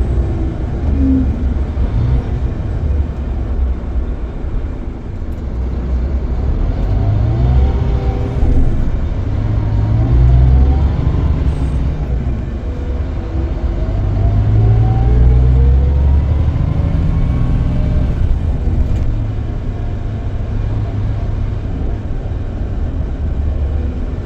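Scania K440EB coach's 13-litre six-cylinder diesel pulling under load, its pitch climbing steadily twice as it accelerates through the gears, over a heavy low rumble.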